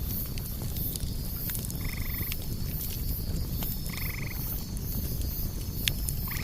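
Outdoor wood fire crackling with sharp pops over a low rumble, while a frog calls three times, short trilled croaks about two seconds apart.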